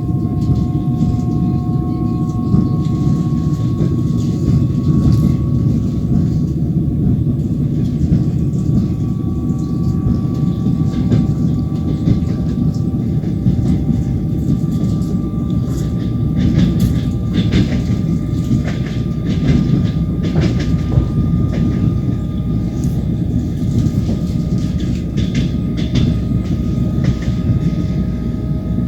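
Passenger train running on the rails, heard from a carriage window: a steady rumble with wheel clatter over the rail joints, and two faint tones that rise slowly in pitch.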